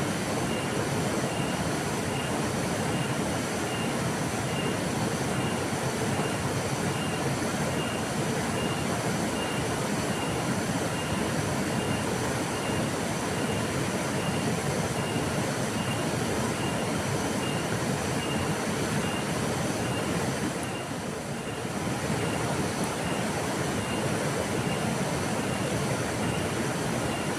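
River water flowing in a steady, even rush, with a brief slight dip in level about three quarters of the way through. A faint high-pitched pulse repeats about twice a second throughout.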